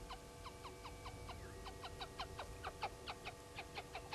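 A bird calling faintly in a rapid series of short chirps, each sliding quickly down in pitch, about five a second with a brief pause a little after the first second, over a faint steady hum.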